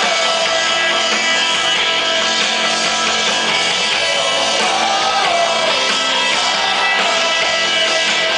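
Live rock band playing, electric guitars ringing over drums, with singing.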